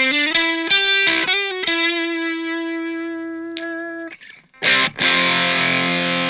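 Electric guitar through a Fender Santa Ana Overdrive pedal, heavily overdriven: a quick run of single notes, then one note held and fading for a couple of seconds. After a short gap, a thick distorted chord is struck and left ringing.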